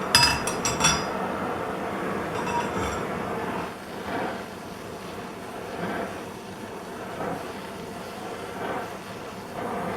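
A few sharp metallic clinks with a short ring in the first second, pliers handling the steel sleeve. Under them and after, the steady hissing rush of a gas torch flame heating the sleeve so it expands.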